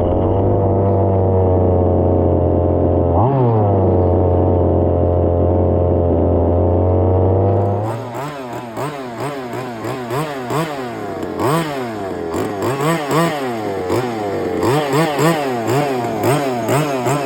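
Small two-stroke petrol engine of a 1/5-scale RC F1 car held at steady high revs, with one quick blip about three seconds in. Near the middle the sound changes abruptly to the engine being revved up and down over and over, about two throttle blips a second.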